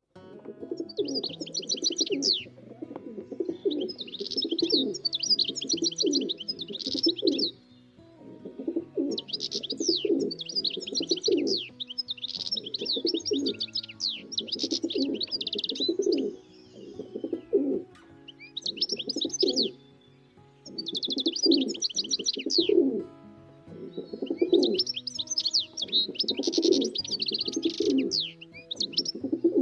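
Birds chirping in repeated bursts of rapid high notes a few seconds long, with short pauses between them, over lower cooing.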